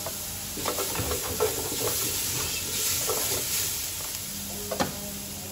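Chopped onions, cumin seeds and curry leaves sizzling in a hot pot, with a wooden spoon scraping and knocking against the pot as it stirs them. A sharper knock of the spoon comes near the end.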